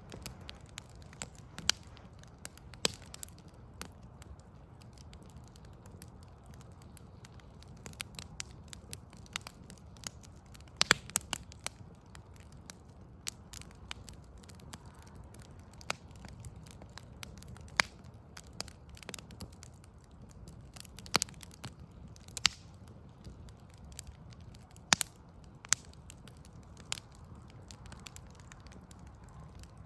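Wood fire of burning logs crackling: irregular sharp pops and snaps, a few much louder than the rest, over a low steady rumble.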